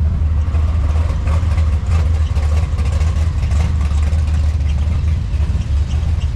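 Car engines idling and rolling slowly by in show traffic, a steady low rumble.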